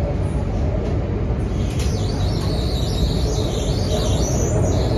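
CRRC Nanjing Puzhen Type-A metro train running, heard from inside the car: a steady low rumble, joined about two seconds in by a high, wavering squeal that lasts almost to the end.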